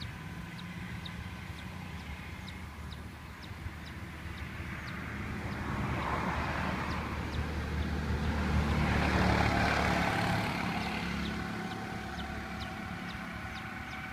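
A low motor hum that swells over several seconds and then fades, like a vehicle passing, with a faint short high chirp repeating about twice a second throughout.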